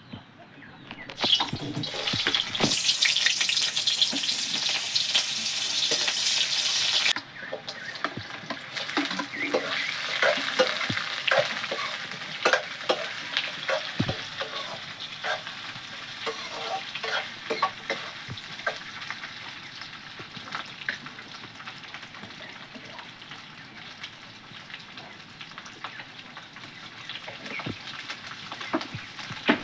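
Pork frying in hot oil in a pan. A loud sizzle starts about a second in and drops off sharply about seven seconds in to a quieter, steady sizzle. Scattered knocks and scrapes of a utensil stirring the meat run through it.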